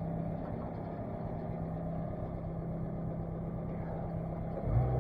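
An engine running steadily at idle, a low hum over a rough rumble. Near the end a louder, deeper held tone starts.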